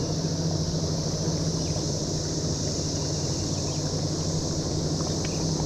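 Steady high-pitched drone of a periodical cicada chorus during the mass emergence, with a steady low hum underneath.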